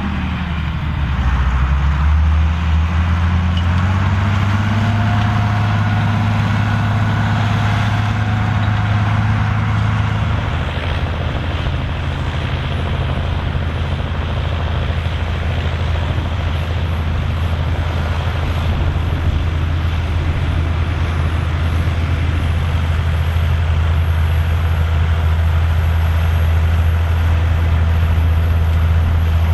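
Massey Ferguson 2680 tractor's diesel engine running under load while pulling a cultivator. Its pitch dips, then climbs over the first few seconds before settling into a steady drone.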